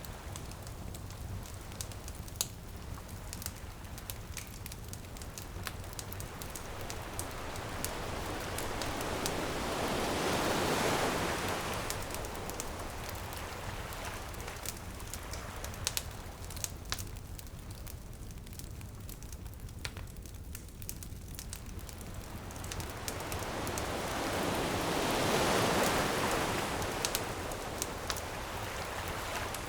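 Ocean waves washing in on a beach, two slow swells rising and falling about fifteen seconds apart, over a steady low surf rumble. A bonfire crackles throughout with frequent sharp pops.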